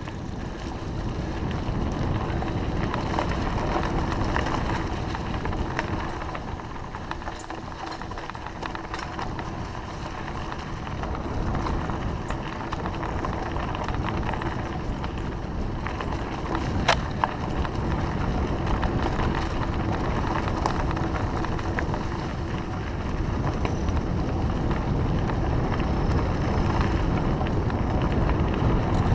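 Wind buffeting the microphone during a bicycle ride, over a steady rushing of tyres on the road, with a few sharp clicks or rattles from the bike, the clearest about halfway through.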